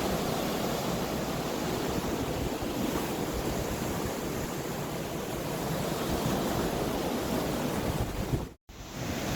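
Rough storm surf rushing and breaking, with strong wind buffeting the microphone. The sound cuts out completely for a moment near the end.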